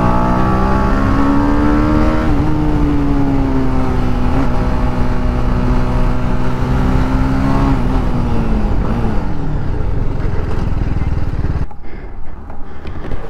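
Motorcycle engine pulling away: its note rises for about two seconds, holds a steady pitch for several seconds, then drops as the throttle is eased off near the end.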